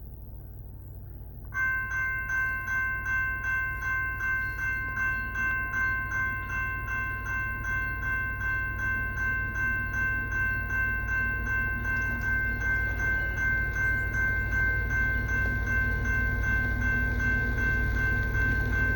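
General Signals Type 2 railroad crossing bell starting to ring suddenly about a second and a half in, striking about three times a second with a steady ringing tone, as the crossing activates to warn of an approaching train. A low steady rumble lies underneath.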